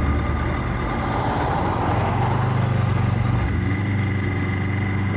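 Motorcycle engine running while riding, with a steady rush of wind noise. The engine note steps up slightly about a second and a half in.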